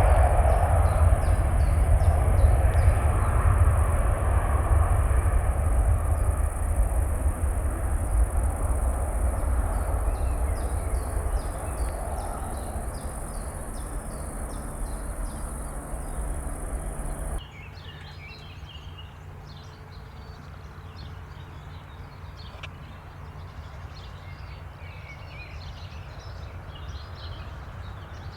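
Jet airliner's engine rumble slowly fading as the aircraft moves away, ending abruptly about 17 seconds in. After that, a quieter outdoor background with scattered bird chirps.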